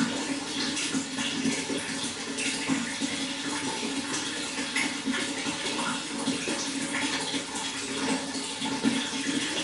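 Flowing water, a steady rushing with constant small splashes and gurgles.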